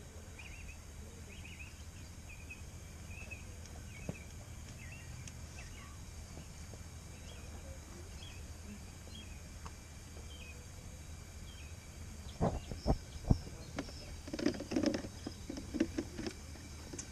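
Small birds chirping in short, scattered calls over a steady low hum, with a few knocks and handling sounds near the end.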